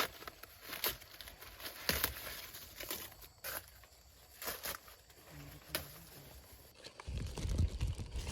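Dry corn plants rustling and crackling in short, separate bursts, with a louder low rumble setting in near the end.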